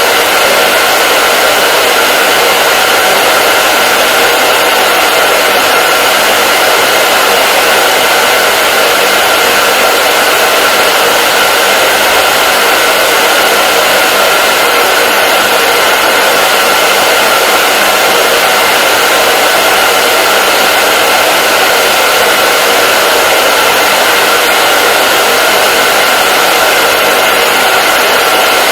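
Hair dryer running continuously: a loud, steady rush of blown air with a steady whine from the motor and fan.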